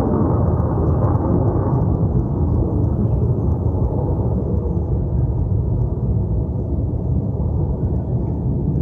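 Military jet aircraft flying low overhead: a loud, steady, deep rumble that eases off slightly after a couple of seconds.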